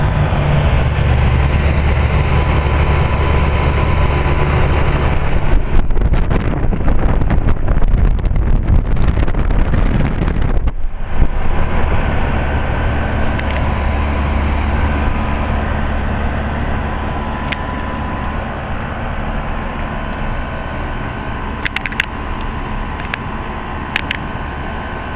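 Outdoor unit of an older York heat pump running: a steady compressor hum with fan noise. For several seconds from about five seconds in, a rough rushing noise covers it, then the hum goes on, slowly fading, with a few sharp clicks near the end.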